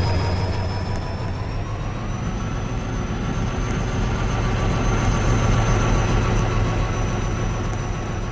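Train running with a heavy low engine rumble and a high whine that rises slowly in pitch over the first few seconds, then holds steady.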